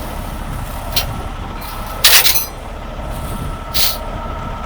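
A heavy diesel tow truck's engine idling steadily, with three short sharp noises over it, the loudest about two seconds in.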